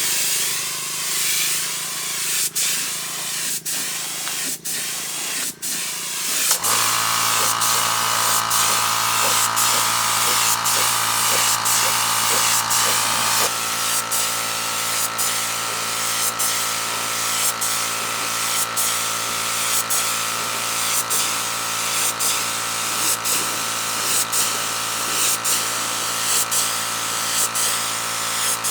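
A spraying hiss with a few sharp ticks, then about six seconds in a small electric power-tool motor starts suddenly and runs steadily, pulsing about once a second.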